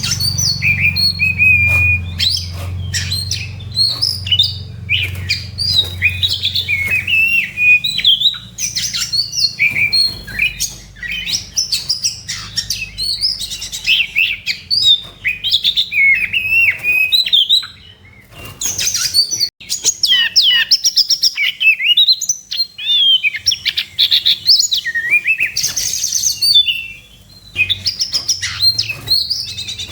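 Oriental magpie-robin (kacer) singing a continuous, varied song of rapid whistles and chattering notes, in the aggressive fighting song used to provoke other magpie-robins. The song breaks off briefly about 18 and 27 seconds in.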